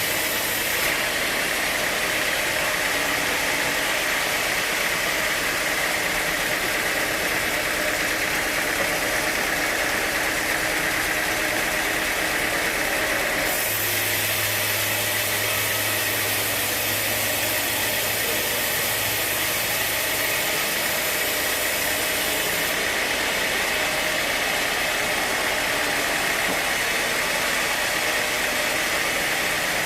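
Sawmill machinery running steadily: a continuous loud mechanical noise with a hissing edge and an underlying hum that changes slightly in pitch about halfway through and again about two-thirds through.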